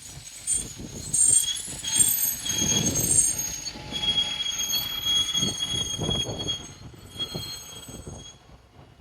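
Train wheels squealing against the rails as a train rolls past: several high, thin screeches over the rumble and knocking of the wheels, fading away near the end.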